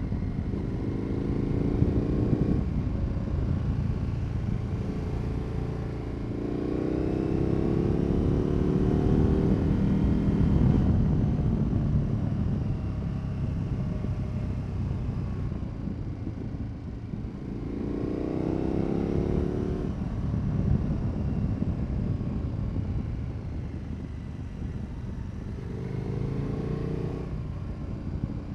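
2022 KTM 1290 Super Adventure S V-twin engine through a Wings aftermarket exhaust, accelerating four times with a rising tone and running steadily at cruise in between.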